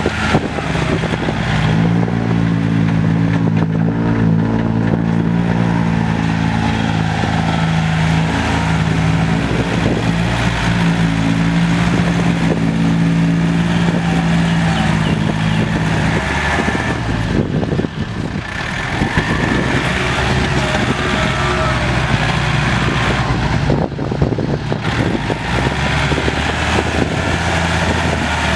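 Tractor diesel engines running under load while pushing soil: a steady engine drone whose note changes about halfway through.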